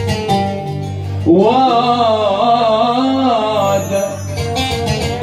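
A male voice sings a long, wavering melismatic phrase in Arabic tarab style over plucked-string accompaniment, starting about a second in.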